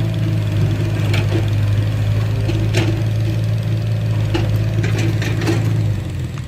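Diesel engine of heavy earthmoving machinery running steadily at an even pitch, with scattered sharp metallic clanks and knocks over it. The engine note drops away about six seconds in.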